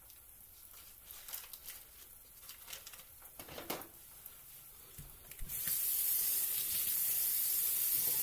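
A few light clinks and handling noises, then about five and a half seconds in, food goes into a hot pan and a steady sizzle of frying starts and keeps going.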